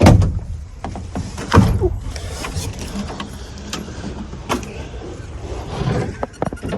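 Knocks, thumps and rustling of someone moving about and handling gear inside a pickup truck's bed topper. The loudest thump comes right at the start, another about a second and a half in, and smaller knocks follow near the end.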